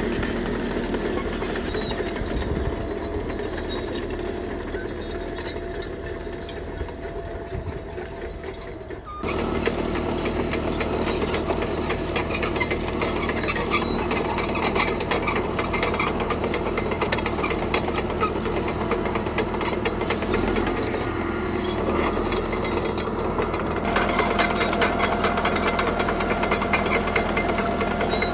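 CAT D3K bulldozer's diesel engine running steadily under work. It is quieter at first, then suddenly gets louder about a third of the way in and stays there.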